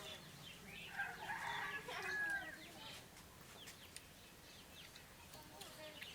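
Chickens calling, with a cluster of curved, pitched calls about a second in that lasts a second or so, then only faint calls.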